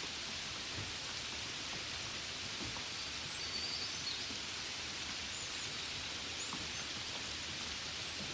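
Steady, gentle rain falling as an even hiss with faint scattered drop taps. A few faint, short, high chirps come through about three to four seconds in and again near six seconds.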